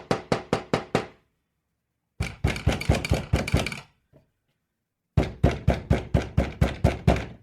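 Knuckles knocking on a door in three quick runs of about ten knocks each, roughly five or six a second, with short pauses between the runs and a single faint tap after the second run.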